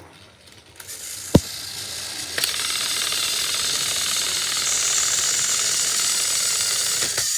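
Two battery-powered toy train engines running at full power, their motors and gears making a steady high whir. There is a sharp click about a second in, then the whir builds and holds, cutting out just before the end.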